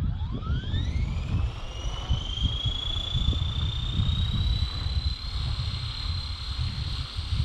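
Align T-Rex 470 electric RC helicopter spooling up: its motor and gear whine rises steeply in pitch over the first two seconds, then keeps creeping higher as the rotor head comes up to speed. A heavy low rumble of wind on the microphone runs under it.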